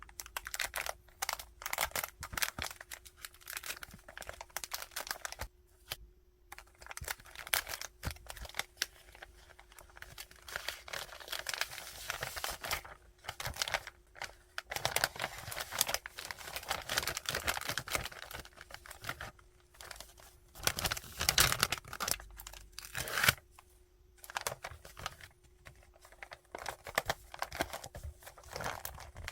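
Plastic and paper packing materials crinkling and rustling as they are handled, with tearing sounds, in irregular spells broken by short pauses.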